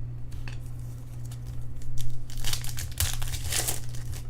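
Plastic wrapper of a trading-card pack crinkling and tearing as it is handled and opened, loudest in the second half.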